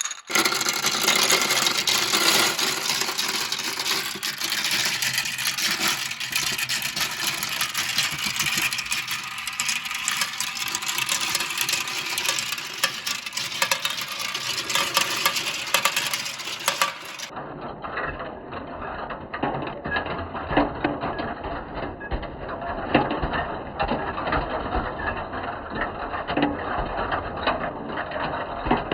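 Many marbles rolling and clattering down a plastic Kumi-Kumi Slope marble run, a dense rattle of small clicks. About 17 seconds in it changes abruptly to a duller, more muffled clatter.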